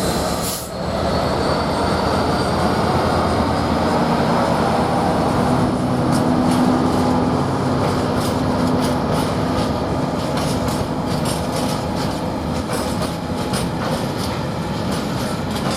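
Class 66 diesel-electric freight locomotive (EMD two-stroke V12) going by with a steady engine drone. About halfway through, the freight wagons' wheels start clicking rapidly over the rail joints.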